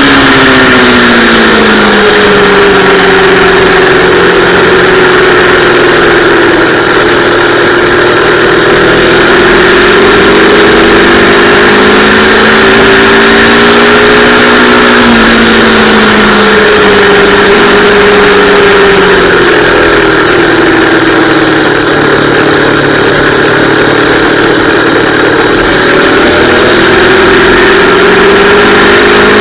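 Yamaha R3's parallel-twin engine at speed on a track, its pitch repeatedly climbing under acceleration and dropping under braking and downshifts, over a steady rushing noise.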